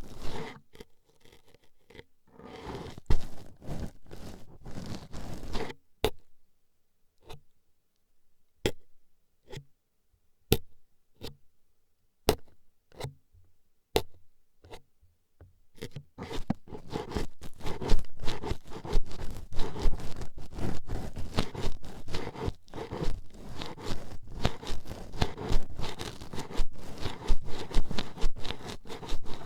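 Wooden toothpicks scraping and poking at a binaural microphone's ear. A few short bursts of scratching come first, then single sharp pokes about once a second, and about halfway through the scratching turns rapid and continuous.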